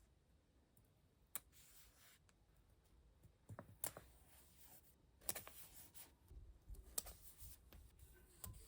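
Faint, scattered clicks and light handling noises, a few seconds apart, in a small quiet room.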